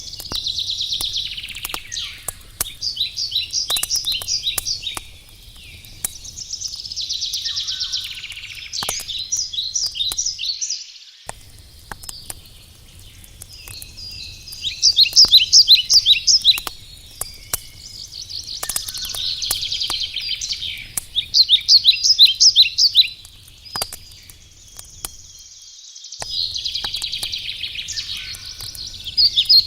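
A songbird singing the same short trilled phrase over and over, a new phrase every few seconds, with the light snapping crackle of a wood campfire underneath.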